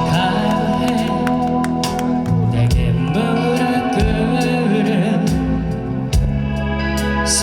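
Live rock band playing a ballad: held bass notes under regular drum and cymbal hits, with a voice singing in places.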